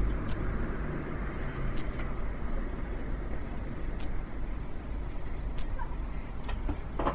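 Steady low outdoor rumble, such as passing road traffic, with a few faint, short clicks scattered through it.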